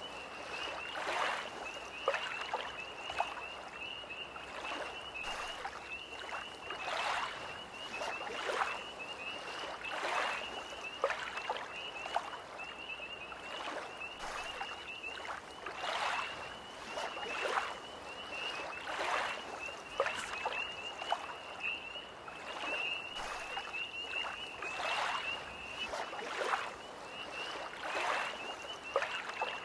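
Small lake waves lapping against the shore in soft splashes about once a second. Over them, tree frogs keep up a continuous high-pitched trill.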